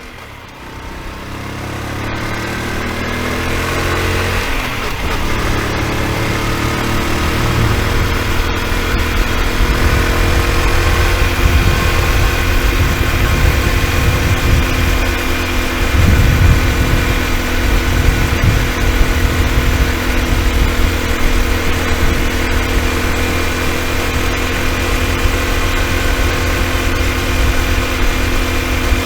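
Honda Super Cub's single-cylinder four-stroke engine running; its sound swells and climbs in pitch over the first few seconds, then settles to a steady idle. No clicking tick is heard, a tick the owner put down to the piston hitting something.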